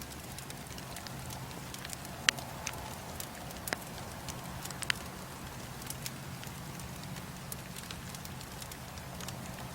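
Bonfire crackling: scattered sharp pops and snaps of burning wood over a steady low background, with three louder pops at about two, four and five seconds in.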